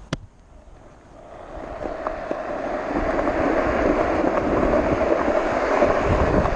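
Small wheels rolling on rough pavement downhill: a steady gritty rumble that builds up over the first few seconds as the ride picks up speed, after a sharp click at the very start.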